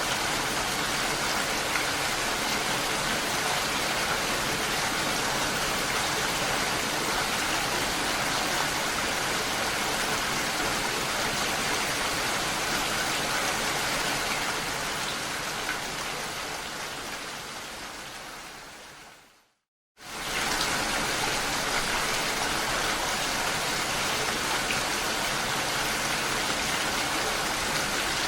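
Steady, even rain sound. About two-thirds of the way through it fades out over several seconds to a brief silence, then comes back in suddenly at full level, like a loop restarting.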